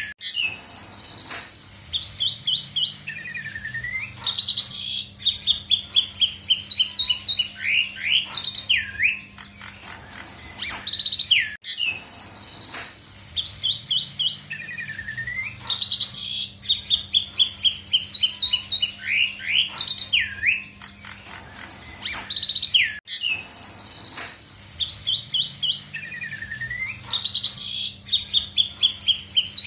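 Asian pied starling (jalak suren) singing a loud, busy song of rapid trills, fast descending note runs and whistled slurs, packed with mimicked phrases. The same run of phrases comes round again about every eleven seconds, over a steady low hum.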